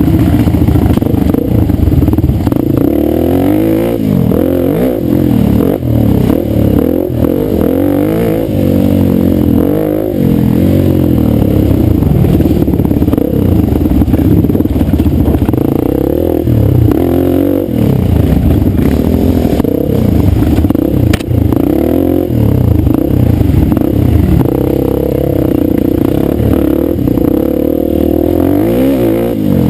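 Dirt bike engine running under way, its pitch repeatedly rising and falling as the throttle is opened and closed.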